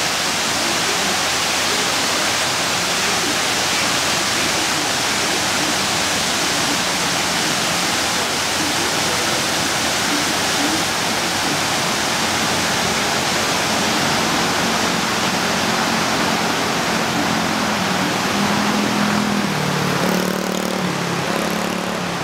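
Man-made waterfall cascading, a steady rushing of falling water. Low pitched tones come in faintly over it in the last few seconds.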